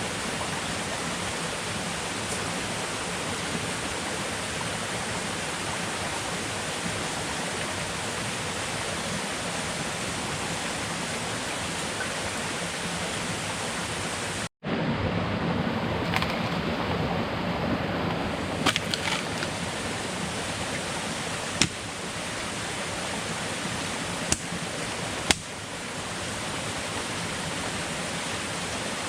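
Steady rushing noise of falling or running water. It breaks off abruptly at a cut just past halfway and resumes slightly louder, with a few sharp clicks scattered through the second half.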